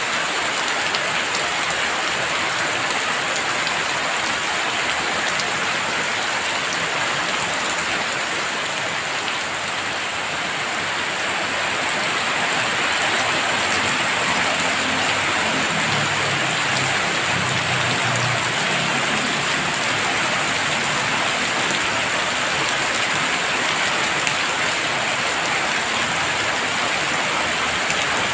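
Heavy rain falling steadily as a dense, even hiss, growing slightly louder about twelve seconds in.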